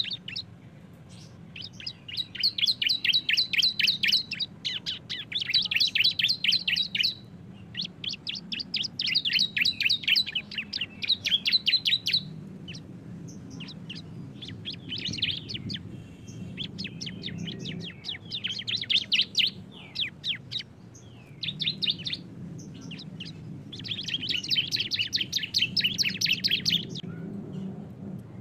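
Two bar-winged prinias (ciblek) singing the fast 'ngebren' song: bouts of rapid, high trilling of one to two seconds each, repeated with short pauses, over a faint steady low hum.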